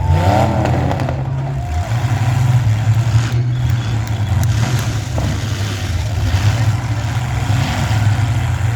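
Demolition derby car engines running loud and revving, with a rising rev right at the start and a few sharp knocks from the cars.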